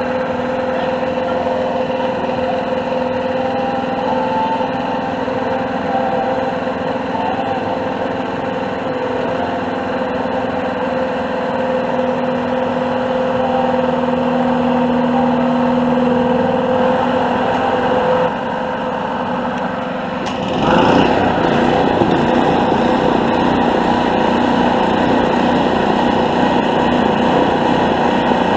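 Small gasoline engine of a walk-behind field and brush mower running steadily. About twenty seconds in it turns suddenly louder and rougher.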